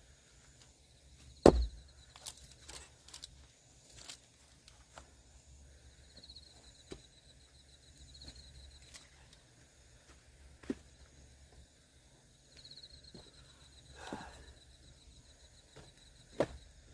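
A single hard axe blow splitting firewood about a second and a half in, followed by scattered light knocks and clatters of wood.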